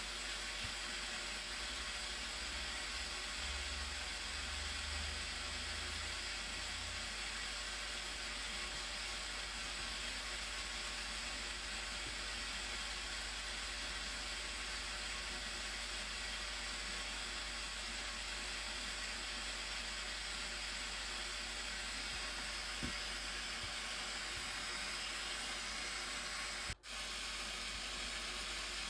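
Steady rushing roar of a large waterfall, the Blue Nile Falls, an even hiss of falling water, broken by a sudden brief dropout near the end.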